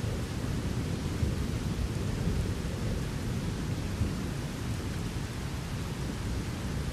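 Rain falling steadily during a thunderstorm, with a continuous low thunder rumble beneath it.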